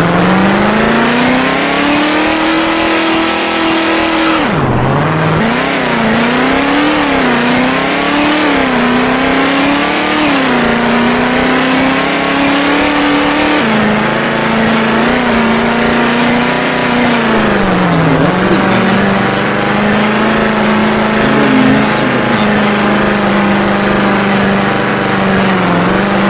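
Chevrolet Camaro engine accelerating hard: the revs climb steeply, drop sharply about four and a half seconds in at a gear change, rise and fall, then step down again and settle into a steady run at speed.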